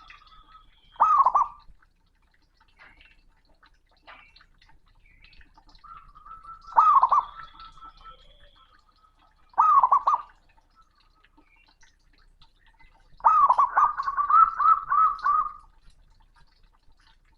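Male zebra dove cooing: three short coos, then a longer run of rapid rolling coo notes near the end. Faint high chirps come between the calls.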